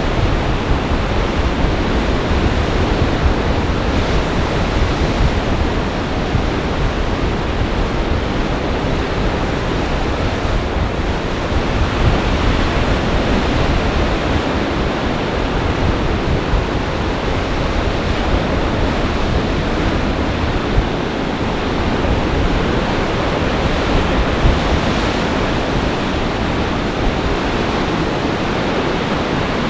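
Storm surf on a large lake under gale-force wind: a steady, dense rush of waves and wind, with wind buffeting the microphone.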